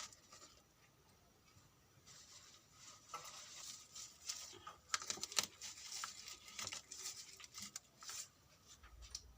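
Faint rustling with a scatter of light clicks and taps, from hands handling leaves and small metal puja vessels.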